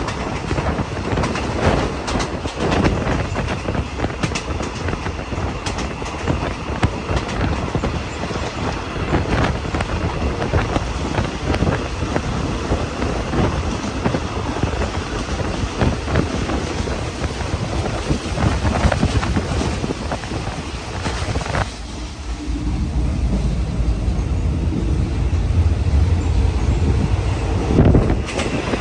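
Thai express passenger train running along the track, with steady rolling rumble and the wheels clacking over rail joints. About three-quarters of the way through, the sound turns suddenly duller: the higher part drops away and a deeper rumble remains.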